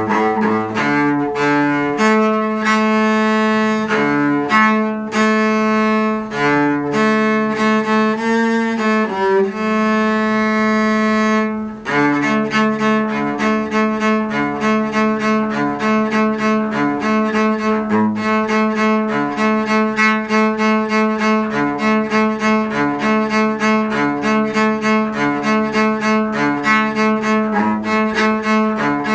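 Bowed strings with the cello prominent, playing an arrangement of Hanukkah tunes in C major. Long held notes for about the first twelve seconds, then a run of short repeated notes at a steady pulse.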